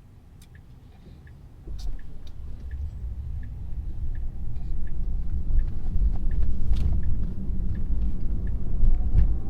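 Road and tyre rumble of a Tesla heard from inside the cabin, coming in suddenly about two seconds in and growing louder as the car picks up speed on a wet road. A light, regular ticking of about two a second sounds in the first second or so.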